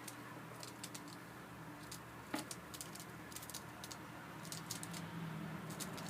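Light, irregular ticks and taps from a pet canary's claws and beak as it hops and pecks about, with one sharper tap a little over two seconds in, over a steady low hum.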